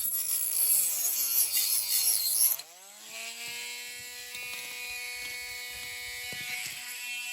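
Handheld rotary multi-tool cutting into a model car's interior: the motor's pitch sags and wavers under load with a gritty cutting hiss for the first two and a half seconds, then the cut breaks off and the tool runs free at a steady high whine.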